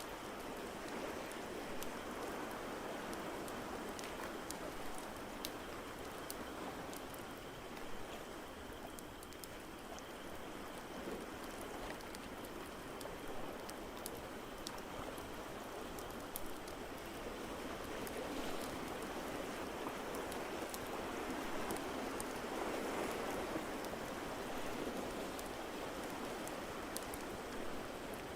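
A steady wash of ocean waves, slowly swelling and easing, with the small sharp pops and snaps of a crackling wood fire scattered through it.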